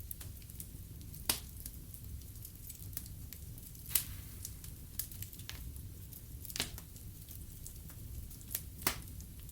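Wood fire burning in a fireplace, crackling: frequent small snaps over a low steady rumble, with four louder pops spaced about two to three seconds apart.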